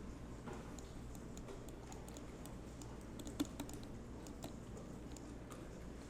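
Computer keyboard keys tapped sporadically, a few scattered clicks with one sharper tap about three and a half seconds in, over a faint steady low hum.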